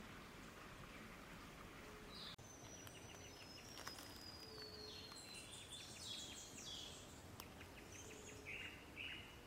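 Faint songbirds calling: a thin, high whistle drawn out and falling in pitch, with trills and short chirps from several birds, over a steady background hiss.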